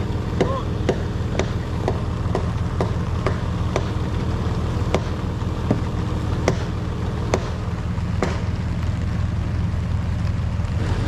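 A motor vehicle engine running steadily, with sharp clicks about every half second that grow further apart later on.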